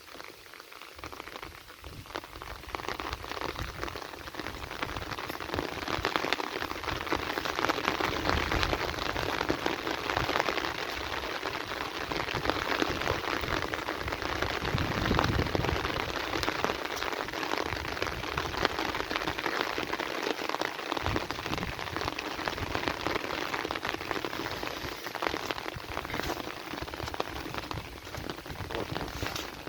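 Heavy rain falling, a dense patter of drops that swells louder for several seconds in the middle, then eases a little.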